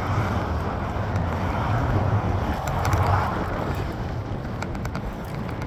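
Wind buffeting the microphone with road and tyre noise while riding a mountain bike in traffic, a steady rushing that swells about halfway through, with a few faint ticks.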